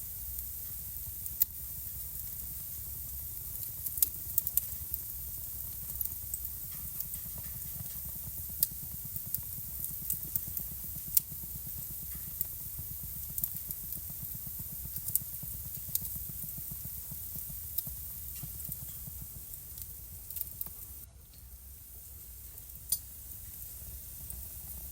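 Wood fire crackling in a home fireplace: a steady hiss with a low rumble beneath, broken by scattered sharp pops every second or few. The fire noise drops for a moment about three quarters of the way through.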